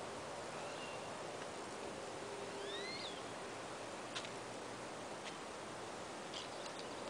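Small birds chirping a few times over a steady outdoor hiss, with a few short sharp clicks in the second half.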